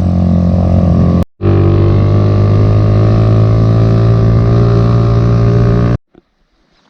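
Motorcycle engine running steadily on the road. It cuts out briefly a little over a second in, then stops abruptly about six seconds in.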